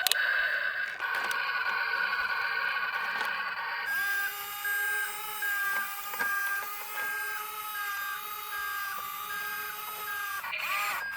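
Steady electronic tones, with a repeating beep from about four seconds in over a held chord-like tone.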